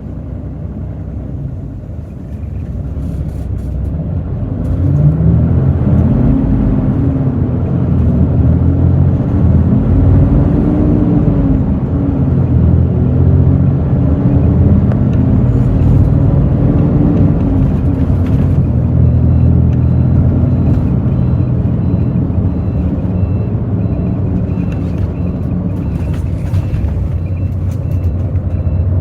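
Hino J08E-VD six-cylinder diesel bus engine heard from inside the bus, growing louder as it pulls away and then rising in revs and dropping back several times as the ZF six-speed manual gearbox is shifted up, before settling into steadier running. A faint repeating high beep sounds through the later part.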